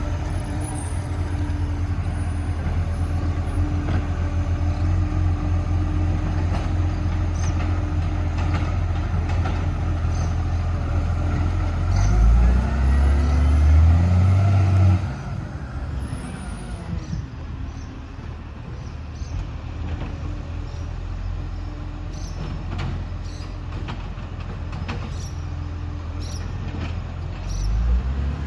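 Garbage truck's diesel engine running steadily with a constant tone over it, revving up for a few seconds about twelve seconds in. It drops off suddenly at about fifteen seconds, leaving a quieter engine sound with scattered light clicks, and revs again near the end.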